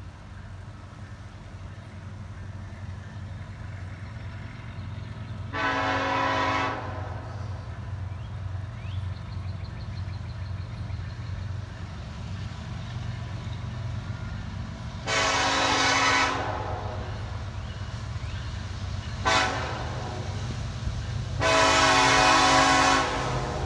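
Freight locomotive horn sounding the grade-crossing signal: two long blasts, one short and one long, the warning for an approaching road crossing. A steady low rumble runs underneath.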